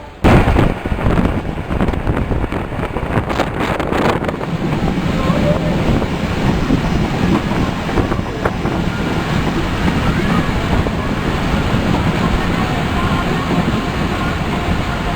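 Passenger train running on the track, with wind buffeting the microphone; it starts abruptly and then goes on as a steady loud rush with a few knocks a few seconds in.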